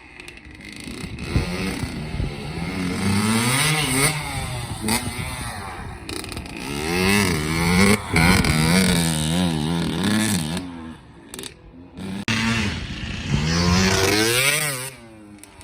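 85cc two-stroke dirt bike engine revving up and down again and again as it is ridden, in three loud stretches with short drops in between.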